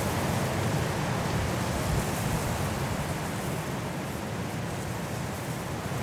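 Strong wind blowing through trees in a snowstorm, a steady deep rushing with slight swells and a small lull in the second half.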